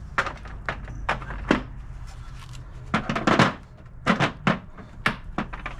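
A series of irregular sharp knocks and clunks, with a dense cluster about three seconds in, over a steady low hum.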